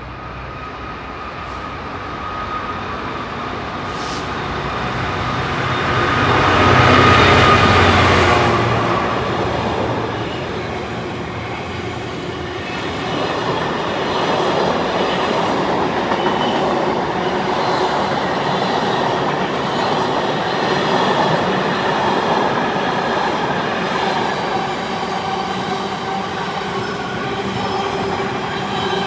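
A locomotive-hauled train passing: the locomotive's rumble builds to its loudest about seven seconds in. A long rake of carriages or wagons follows, rolling past with a steady rumble, some clickety-clack and squealing wheels.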